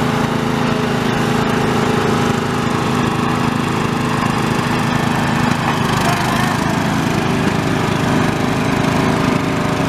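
Riding lawn mower engine running steadily under way, with a slight shift in its note about six seconds in.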